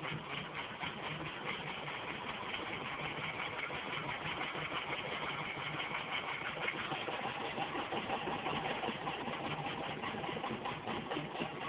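Steam engine running steadily under steam pressure: a rapid, even beat over a continuous hiss.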